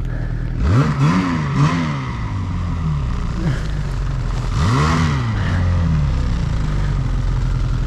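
Snowmobile engine idling, revved up and back down sharply several times about a second in and once more near the middle, as the sled sits stuck in deep powder snow.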